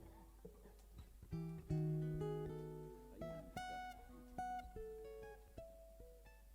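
Acoustic guitar played quietly, single notes and small chords plucked one at a time at an uneven pace, each ringing out.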